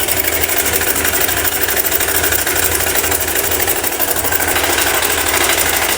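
Honda Bros 150 single-cylinder engine idling with a rapid, steady metallic clatter from the cam chain, like a sewing machine. The mechanic puts it down to a worn cam chain and a cam-chain tensioner that slips down instead of locking.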